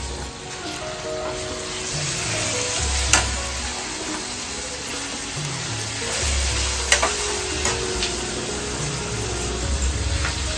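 Ginger-garlic and spice masala sizzling steadily in hot oil in a kadhai, with raw octopus pieces being spooned into the pan. A few sharp clicks come about three, seven and ten seconds in.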